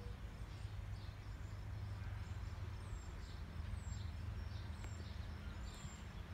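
Outdoor ambience: a steady low hum with small birds chirping, short high chirps a few times in the second half.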